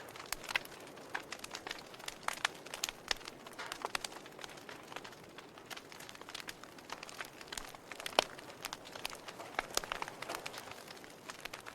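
Wood fire crackling in a fireplace: irregular sharp pops and snaps over the soft steady hiss of the burning logs, with one louder pop about eight seconds in.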